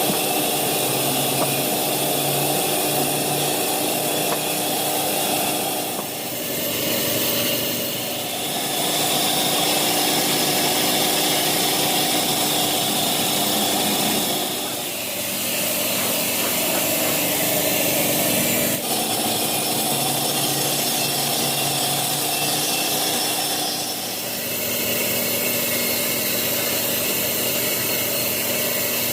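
Sawmill saw and its drive motor running steadily while cutting a teak log. The sound dips and shifts briefly several times.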